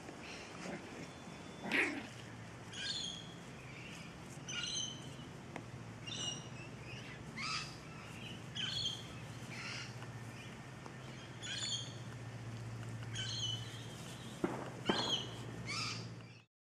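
A bird calling over and over in short high chirps, about one every second, over a steady low hum.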